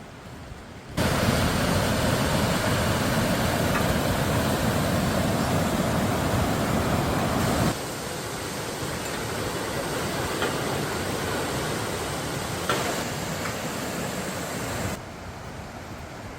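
A mountain valley stream rushing over rocks, a steady even rush of water. It comes in loud about a second in, drops somewhat around eight seconds, and drops again near the end.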